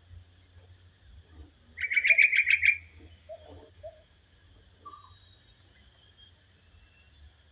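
A songbird sings one short, rapid trill of about eight quick notes lasting about a second, with a few faint chirps after it. Underneath runs a steady high insect hum.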